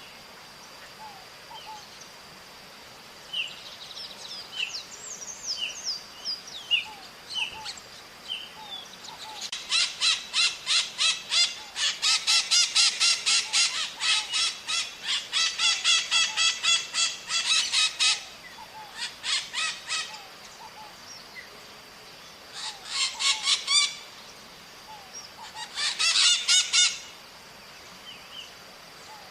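Maritaca parrots screeching in fast series of harsh calls, in several bouts starting about a third of the way in, the longest running about eight seconds. Before that, scattered short high chirps from small birds, over a thin steady high tone.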